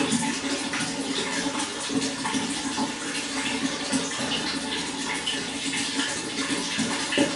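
Running water flowing steadily, with many small splashes and gurgles.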